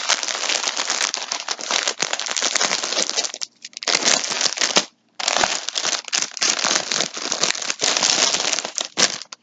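Plastic packaging crinkling and rustling as skeins of yarn are handled, with two short pauses around the middle.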